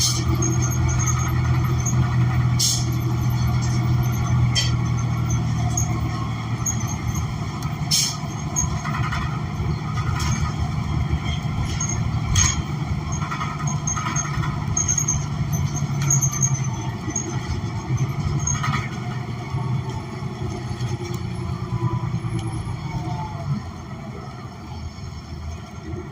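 Inside the cabin of a 2016 New Flyer XN40 transit bus under way: its Cummins Westport ISL G natural-gas engine and Allison transmission give a steady low drone. A few sharp clicks or rattles sound through it, and the drone grows quieter over the last third.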